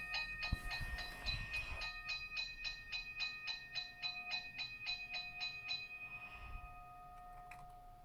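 Electronic crossing-bell sound from a toy railroad crossing's built-in speaker: rapid ringing dings, about five a second, growing fainter. The dinging stops about six seconds in, leaving a held tone that cuts off with a click near the end.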